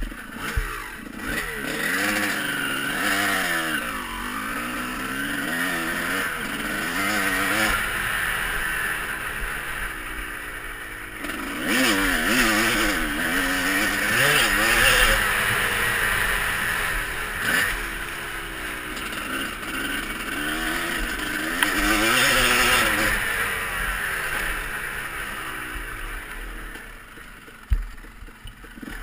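Motocross bikes riding the track, engines revving up and easing off again and again, loudest around the middle. A sharp knock near the end.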